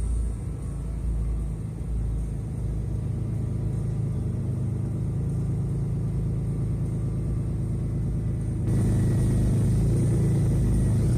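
6.7-litre Cummins inline-six turbo-diesel running at a steady cold high idle with the exhaust brake on to speed warm-up, a deep steady rumble. About three-quarters of the way through it abruptly gets louder and brighter.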